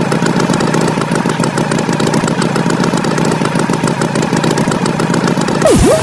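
Cartoon tractor engine sound effect running steadily with a fast, even chug. Near the end a short tone dives sharply in pitch and swoops back up.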